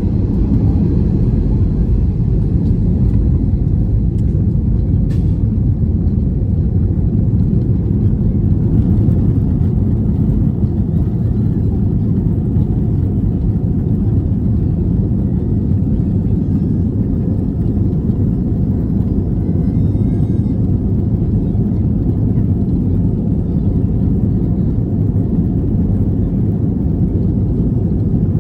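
Steady low cabin noise inside an Airbus A321 airliner, its jet engines running without change in pitch or level.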